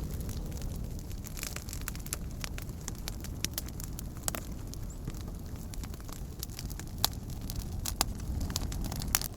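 Campfire crackling and popping, with irregular sharp snaps and a few louder pops near the end, over a steady low rumble.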